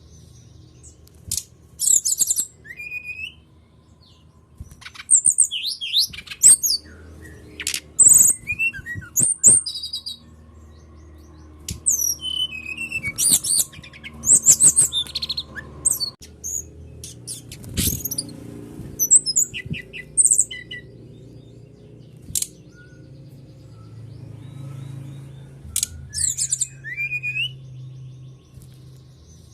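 Brown-chested jungle flycatcher (Sikatan Rimba Dada Coklat) singing in bursts of high, quick, sliding whistles and chirps, with short pauses between phrases. A steady low hum runs underneath.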